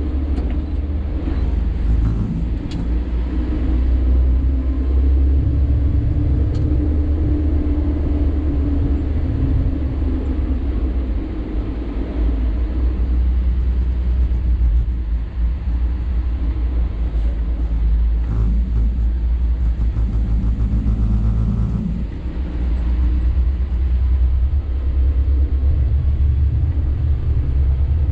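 Sany 6x4 dump truck on the move: a steady, loud, low engine and road rumble, easing briefly about 22 seconds in.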